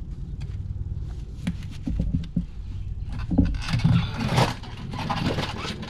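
Clicks, light rattles and scraping from hand-work on wiring and plastic clips at a truck's front wheel hub, busiest a little past halfway. A steady low hum runs underneath.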